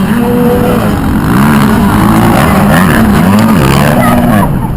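Kawasaki KX450F motocross bike's single-cylinder four-stroke engine revving hard, its pitch climbing and dropping about five times in quick succession with the throttle and gear changes.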